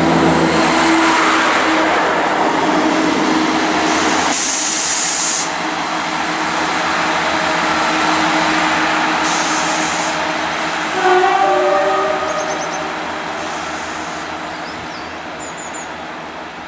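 A green GWR diesel multiple unit running past close by, a steady rumble and hiss of engine and wheels. After a cut, a GWR Class 158 diesel unit approaches and sounds its two-tone horn briefly about eleven seconds in, then its sound fades.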